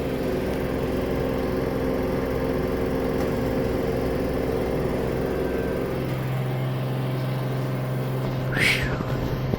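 Samsung AddWash front-loading washing machine on its high-speed spin, the drum humming and the cabinet vibrating. About six seconds in, the deep rumble drops away and the hum settles to a different pitch. A brief higher squeak comes near the end.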